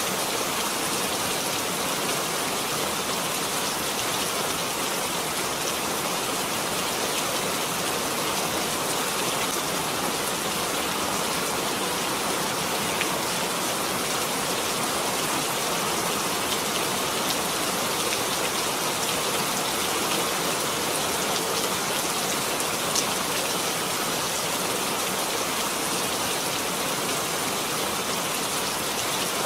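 Steady rainfall, an even hiss of many drops with a few louder drips standing out.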